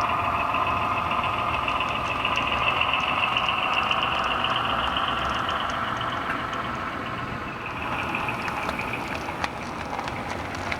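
HO-scale model train running on the layout: a steady mechanical whine with an engine-like rumble beneath, easing slightly past the middle, with a few faint light ticks.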